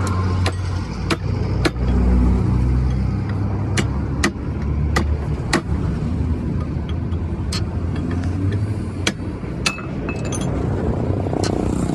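Low engine rumble of road vehicles that rises and falls, with about a dozen sharp metal clinks at irregular intervals from tools working on the truck.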